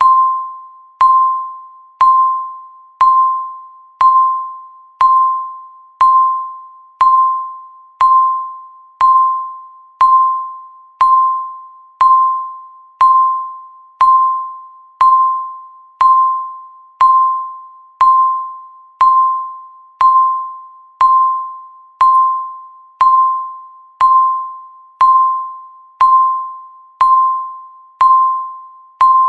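Countdown timer tick: a single pitched electronic ping once every second, each one struck sharply and ringing down until the next, in a perfectly even rhythm.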